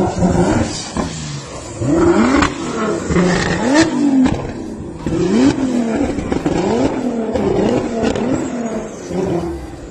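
Nissan GT-R R35's twin-turbo V6 revving hard during donuts, its pitch rising and falling over and over about once a second, with several sharp cracks in between.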